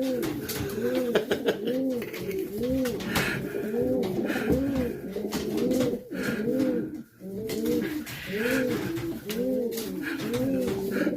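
Several racing pigeons cooing, overlapping rise-and-fall coos following one another with hardly a break, with a few faint clicks among them.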